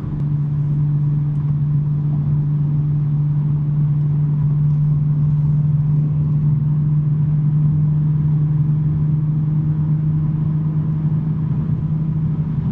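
BMW M3 G80's twin-turbo inline-six, with a non-resonated J-pipe exhaust, cruising at a steady speed: a constant low exhaust drone that holds one pitch, over road noise.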